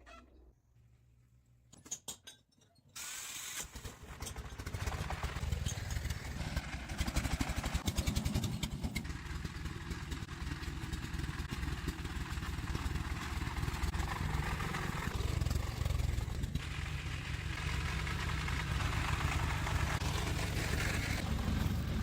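A heavy truck's engine running steadily with a low rumble, setting in abruptly about three seconds in after a few quiet seconds.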